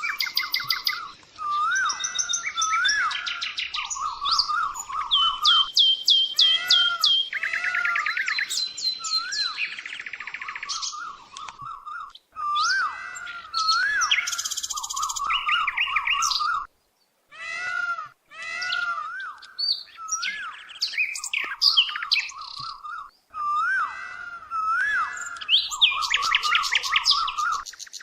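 Several songbirds chirping and trilling together, with fast repeated trills and a recurring up-and-down whistle; the birdsong cuts out for about a second midway.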